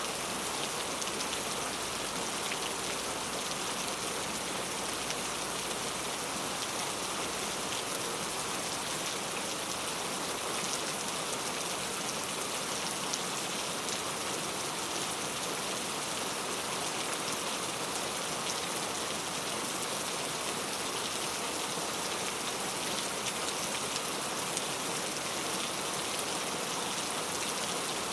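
Heavy rain falling steadily on hard street surfaces, a dense even hiss with fine drop patter throughout.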